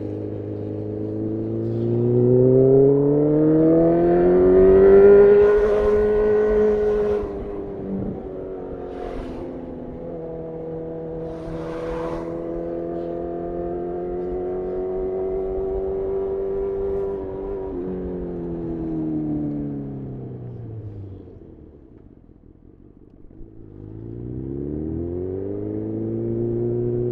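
Honda CB1000R inline-four with an aftermarket full-system exhaust, heard from the rider's seat: it revs up hard under acceleration for the first few seconds, cruises at a fairly even pitch, then winds down almost to idle about 22 seconds in before pulling away again near the end.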